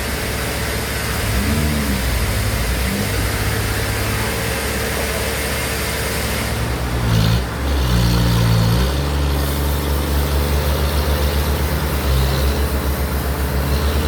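An engine running, its speed rising and falling a few times, then settling into a steady throbbing run.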